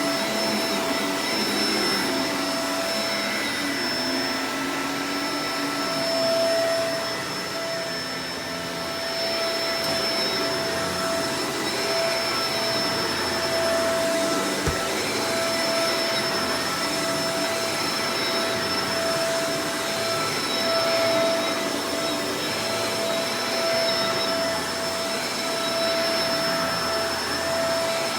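Shark Professional Powered Lift-Away DLX NV586 vacuum cleaner running continuously: a steady motor whine over a rushing airflow noise, swelling and easing slightly. There is one short click about halfway through.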